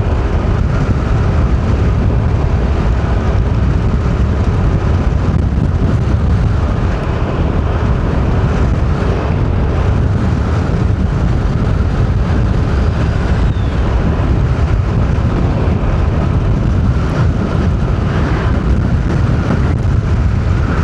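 Steady low rumble of a moving car heard from inside the cabin: engine, tyre and wind noise.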